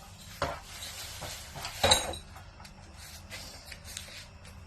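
Two sharp knocks from objects being handled, the second louder with a brief metallic clink, followed by a few light clicks.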